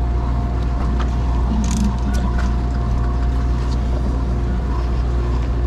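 Sportfishing boat's engine running with a steady low drone and a faint constant tone above it, with a few faint ticks.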